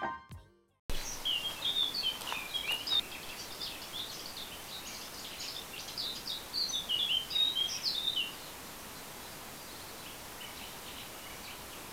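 Small birds chirping and singing in quick high notes over a steady outdoor background hiss; the chirping dies away about eight seconds in.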